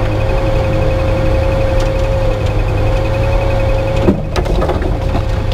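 Suzuki Jimny Katana's stock F10A four-cylinder engine running steadily as the vehicle drives off-road, a low drone with a steady whine over it. About four seconds in, a few knocks and scrapes as branches brush the body.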